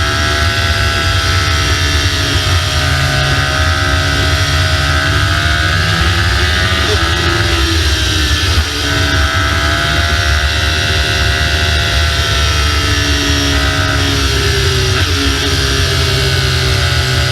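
BMW R1200GS boxer-twin engine running under way, with heavy wind rush over the microphone. The engine note rises and falls in pitch, with a short break in it about eight and a half seconds in.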